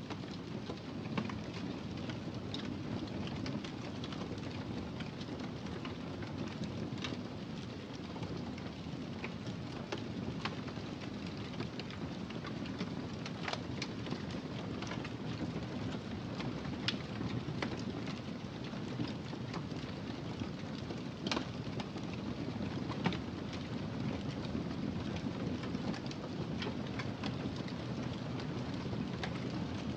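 Wood fire burning in a fireplace: a steady low rush of flames with frequent irregular crackles and pops, a few of them sharper and louder.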